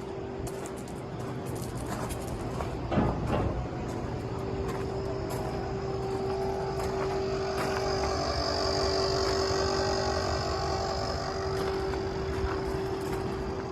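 Diesel truck engine, the Cat C7 in a 2008 Ford F650, running steadily with a constant whine over it. It grows a little louder through the middle, and there is one short knock about three seconds in.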